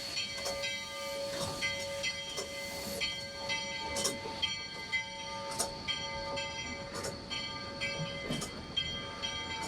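No. 40 steam locomotive working, heard from inside the cab: steady hissing with several high ringing tones that break off and come back, and sharp knocks about once or twice a second.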